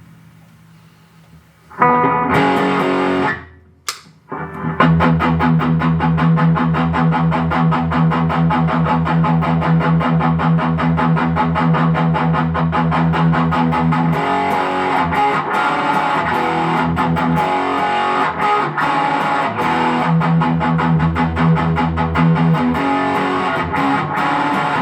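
Heavily distorted electric guitar through a ProCo RAT2 and Boss GE-7 equalizer boosting a dirty amp. After about two seconds of amp hum, a short chord rings and is cut off, then a fast, evenly picked riff runs on from about five seconds in.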